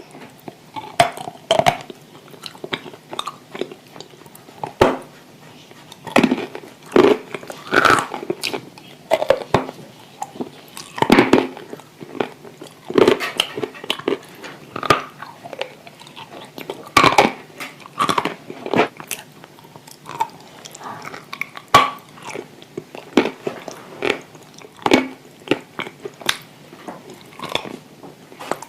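Close-up mouth sounds of someone biting into and crunching something hard and dry, then chewing it. The crunches come irregularly, several every couple of seconds, with the loudest around the middle of the stretch.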